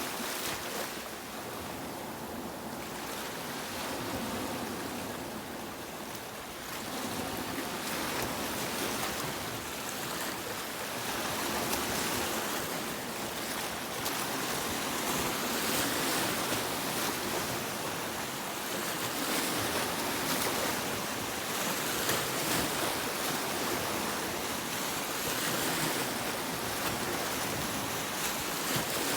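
Sea waves washing onto a beach: a continuous surf hiss that swells and eases gently every few seconds.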